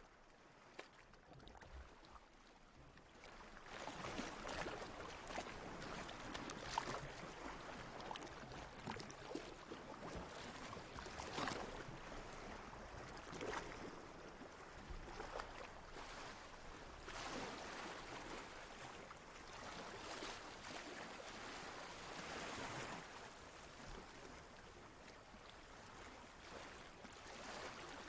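Sea water lapping and washing in gentle waves, swelling every two or three seconds. It starts faint and grows louder about four seconds in.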